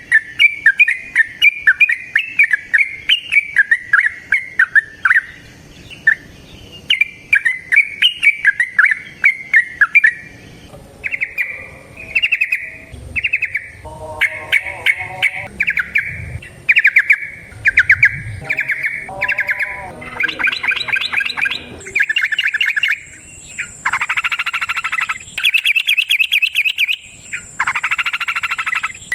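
Yellow-vented bulbul (trucukan) singing a rapid, bubbling chatter in repeated phrases of a second or two, with short gaps between them. The long, run-on 'ropel' song that keepers play to draw captive trucukan into singing. In the last third the phrases turn louder and harsher.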